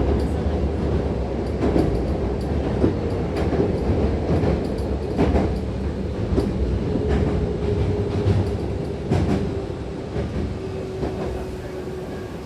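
Hankyu Takarazuka Line electric train running on the rails: a steady low rumble with irregular clicks from the wheels, and a faint hum that sinks slightly in pitch. The sound eases off gradually toward the end.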